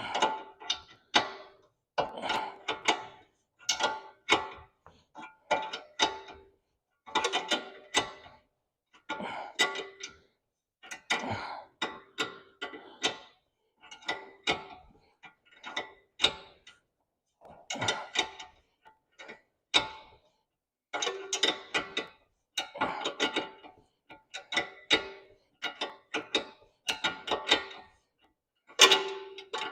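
Ratchet wrench being worked back and forth on a bolt, giving short bursts of metallic clicks about once a second, each with a light metallic ring.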